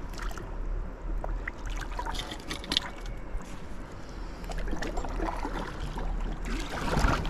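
Water splashing and trickling around a kayak, with scattered small knocks and a louder rush of splashing near the end, over a low wind rumble on the microphone.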